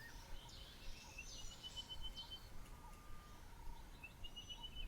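Faint wild birdsong in bushveld: several birds calling, with a fast high trill of rapidly repeated notes heard twice, short rising chirps and thin whistles.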